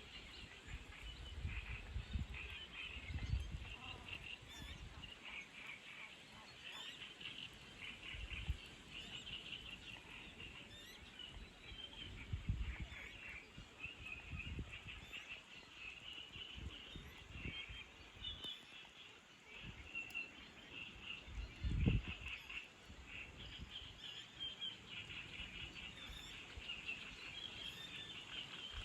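A dense chorus of many birds calling over one another without a break. Short bursts of low rumble come and go, the strongest about three-quarters of the way through.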